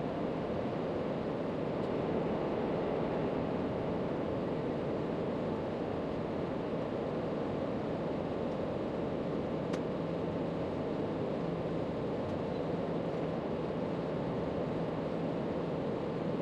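Steady rushing background noise with no distinct events, apart from one faint click about ten seconds in.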